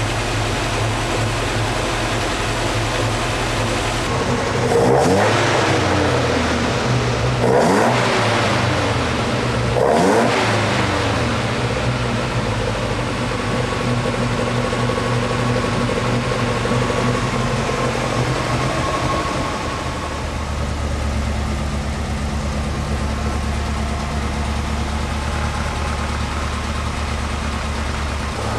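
Alfa Romeo Duetto's twin-cam four-cylinder engine with twin Weber carburettors running during tuning: it is blipped three times in quick succession, each rev rising and falling back, then settles to a steady idle.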